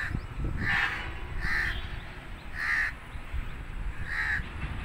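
A bird calling repeatedly: about five short calls, unevenly spaced, over a low rumbling noise.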